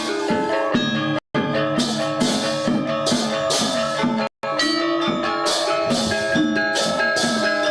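Balinese gamelan gong ensemble playing a classical lelambatan piece: bronze metallophones and gongs ring in interlocking patterns, with repeated bright crashes and drumming. The sound cuts out completely for a moment about a second in and again just after four seconds.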